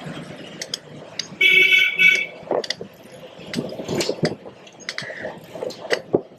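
A vehicle horn honks once, for just under a second, about a second and a half in. Around it is street traffic noise with scattered short clicks and knocks.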